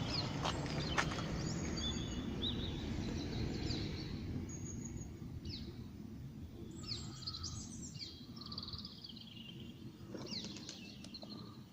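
Several small birds chirping and trilling, with a low background rumble that fades after about four seconds and a few clicks in the first second.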